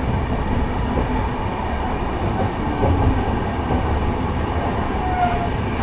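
Steady rumble and rush of train wheels on rail, heard from inside a moving passenger coach as another express train passes close by on the next track.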